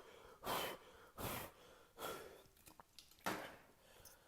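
A person breathing heavily, four audible breaths or sighs roughly a second apart.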